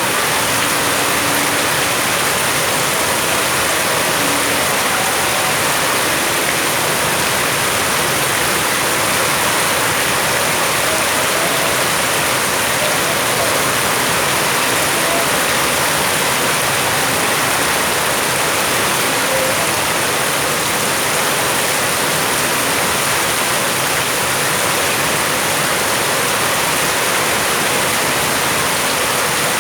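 Rain falling steadily: a dense, even hiss that holds the same level throughout.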